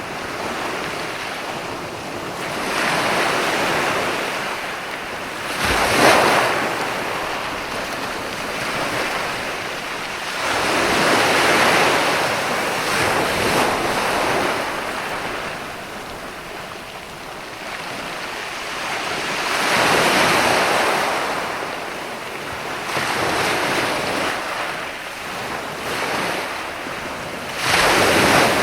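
Sea waves breaking on a beach and washing up the shore, a new swell of surf every few seconds. The sharpest crashes come about six seconds in and near the end.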